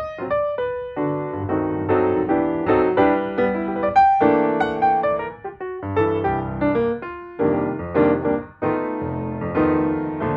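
Background piano music: a keyboard playing a flowing run of notes and chords.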